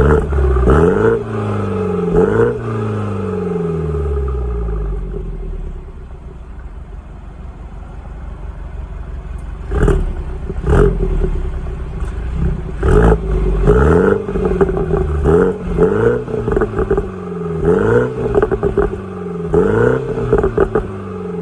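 BMW 330i's turbocharged 2.0-litre four-cylinder revved in repeated short blips through an exhaust with the secondary catalytic converter removed, each rev falling back toward idle. It revs twice at first, idles more quietly for a few seconds, then about eight quicker blips follow.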